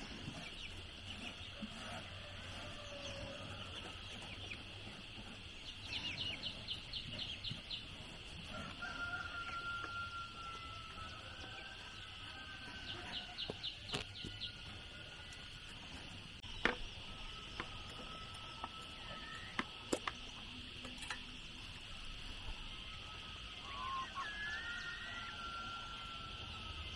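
Roosters crowing, with three long drawn-out calls in the middle and latter part, over a steady high-pitched background drone. Two quick rattling call sequences and a few sharp knocks are heard along the way.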